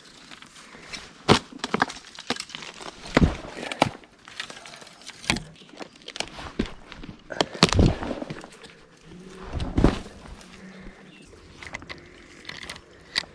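Irregular crackles and knocks, about a dozen, with soft rustling between them, like footsteps and movement through dry brush.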